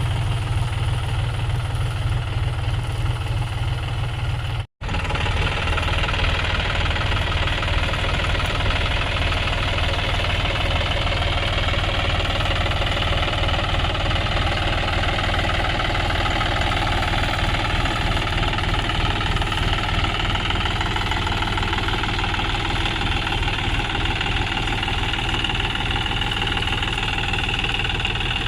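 John Deere tractor's diesel engine running steadily under load as it pulls a cultivator through the soil. The sound cuts out for an instant about five seconds in, then carries on the same.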